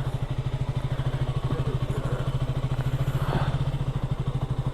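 Motorcycle engine idling with a steady, even beat and no change in pitch.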